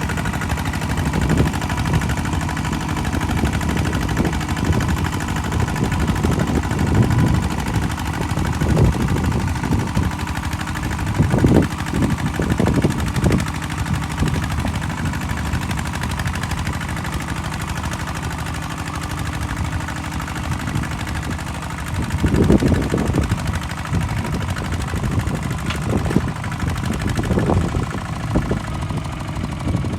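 Kubota walking tractor's single-cylinder diesel engine running with a rapid knocking chug, surging louder several times as it works.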